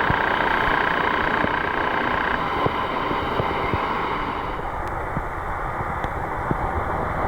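Electric commuter train running on the rails: a steady rumble with scattered light clicks, and a high steady tone that fades away about halfway through.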